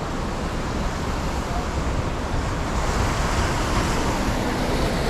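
New York City subway train approaching, a steady rumble and rush of noise that grows louder about halfway through.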